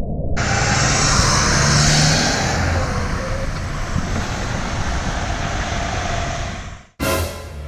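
City street traffic noise, a steady rush of passing vehicles, which starts abruptly under half a second in and cuts off sharply near the end.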